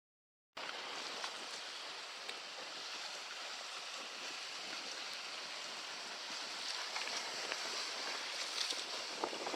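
Dead silence for about half a second, then a steady rushing hiss of wind and water from a boat sailing in strong wind.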